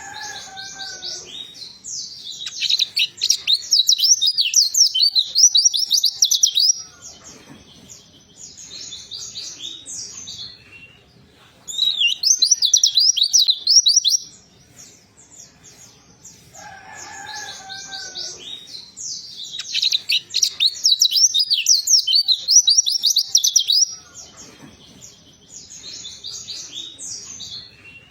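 Pleci (white-eye, Zosterops) singing long phrases of rapid, high twittering, broken by short pauses. A brief lower, sliding call comes right at the start and again about 17 seconds in.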